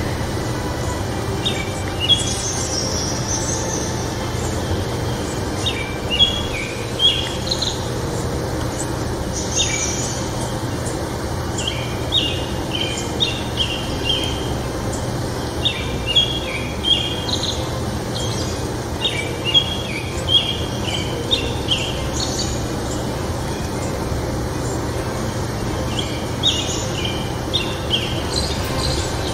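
Small birds chirping: short rising notes repeated in quick clusters every second or two, with a few higher calls, over a steady background hiss.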